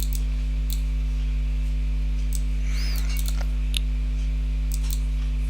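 Steady electrical mains hum at 50 Hz with its overtones, picked up in the recording chain, with a few faint clicks.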